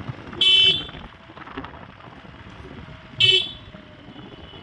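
Vehicle horn honking twice, two short beeps about three seconds apart, over road and wind noise.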